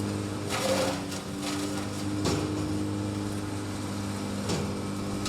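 An engine running steadily at a constant low pitch, with a few short noisy bursts over it.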